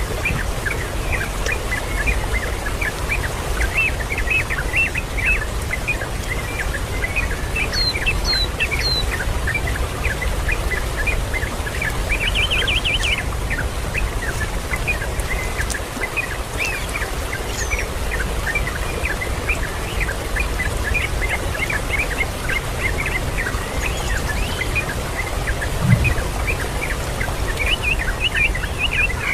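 Birds chirping, many short high calls a few times a second, over a steady background hiss. A brief low thump comes near the end.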